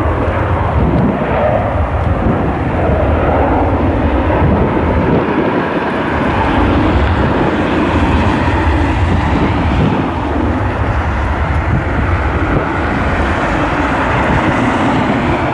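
Jet airliner engines running steadily with a deep rumble, mixed with wind buffeting the microphone.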